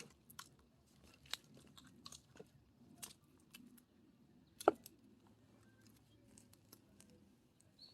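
Scattered faint knocks and crunches of split firewood being handled between axe strikes, with one sharper wooden knock a little past the middle.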